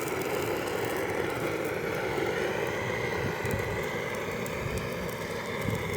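A flame roaring steadily as it singes the leftover feathers off plucked chickens, with a few faint ticks over it.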